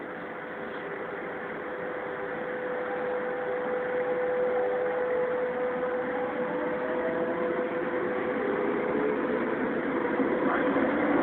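Lisbon Metro train pulling away and picking up speed: a steady electric whine with faint tones rising in pitch over running noise, growing steadily louder.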